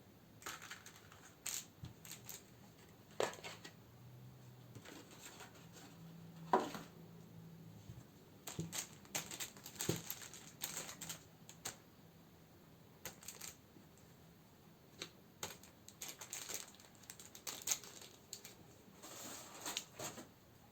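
Close-up handling of candles and their plastic and paper packaging: scattered crinkles, taps and clicks in irregular clusters, with one sharper knock about a third of the way in.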